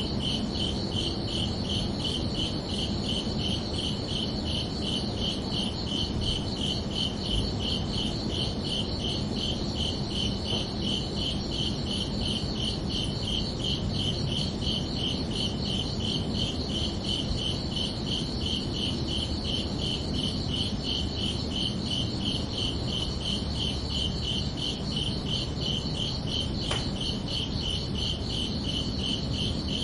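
Crickets chirping in a steady, evenly pulsing high-pitched trill that never stops, over a low, even background hiss.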